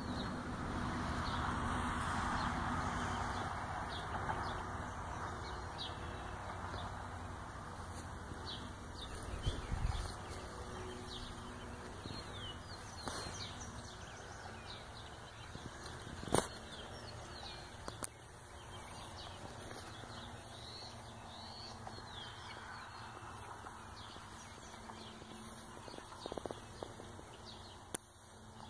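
Outdoor ambience of small birds chirping and calling throughout, over a steady rushing haze that is loudest in the first few seconds. A few sharp clicks stand out, the loudest about two-thirds of the way in.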